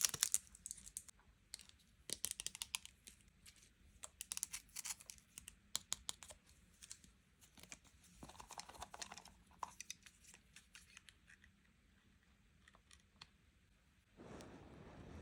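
Packaging being handled and opened up close: a run of small sharp clicks, taps and crinkles, a short lull, then a denser rustle near the end.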